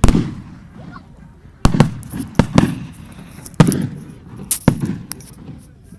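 Aerial fireworks shells bursting: about eight sharp bangs at uneven intervals, each trailing off in a low rumble.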